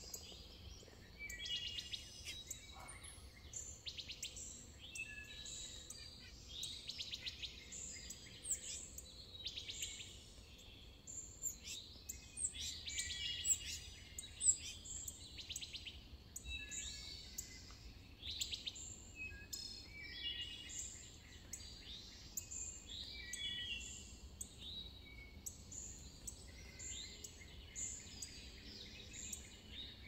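Several wild songbirds chirping and calling at once, a steady stream of short, overlapping notes, over a faint low rumble.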